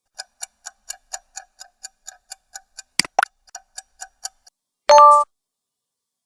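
Clock-ticking sound effect, about four even ticks a second for some four seconds, ending in a short bell-like ding, the answer-time timer of a listening exercise.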